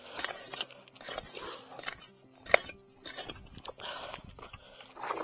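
A prospector's pick striking and scraping stony, gravelly ground while digging out a metal-detector target: a string of sharp clinks and scrapes, the loudest about halfway through. Faint steady tones sit underneath.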